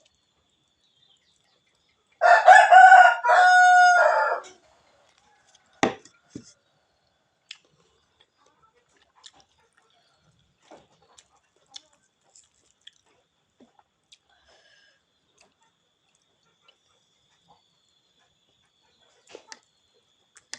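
A rooster crows once: one loud call of about two seconds, in several parts, about two seconds in. Faint scattered clicks and taps follow.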